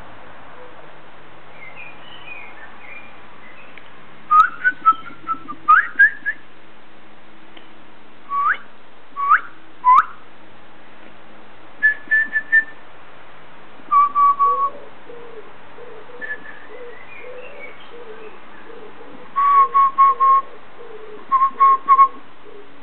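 Birds singing: short whistled notes and quick rising upslurs in clusters of a few at a time, over a steady background hiss, with a fainter lower warbling in the second half.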